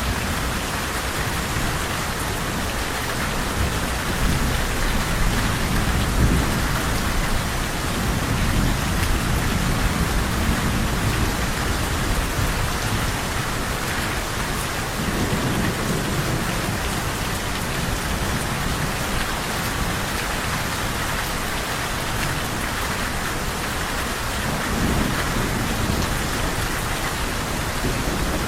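Steady heavy rain falling, with low rumbles of distant thunder rolling in a few times.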